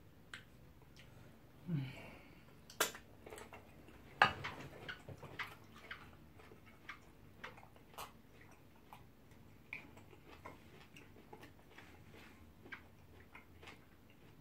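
Faint eating sounds of people chewing pounded yam and ogbono soup eaten by hand: scattered soft clicks and wet mouth smacks, with a sharp knock about four seconds in, the loudest sound.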